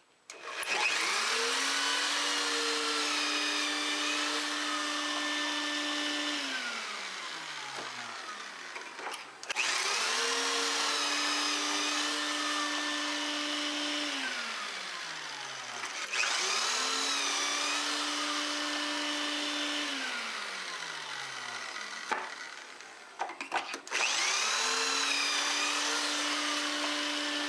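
Electric drill boring pocket holes with a pocket-hole bit, four times. Each run spins up quickly and holds steady for about six seconds; the first three fall in pitch as the motor winds down, and the fourth is still running at the end.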